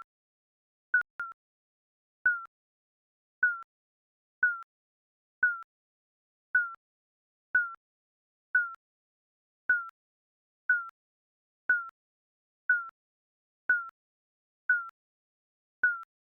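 Digital countdown timer beeping about once a second: short, clipped electronic tones that drop slightly in pitch, with a quick double beep about a second in.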